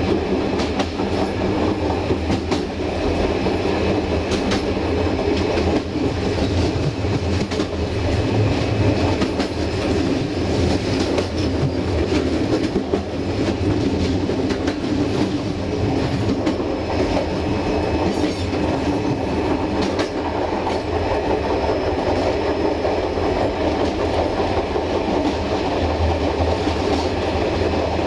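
Passenger train running along the track, heard from its rear: a steady rumble of wheels on rail with scattered clicks as the wheels pass over rail joints.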